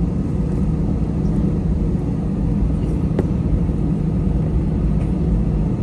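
Airliner cabin noise from a jet taxiing: a steady low rumble of engines and air-conditioning with a constant low hum, and a faint click about three seconds in.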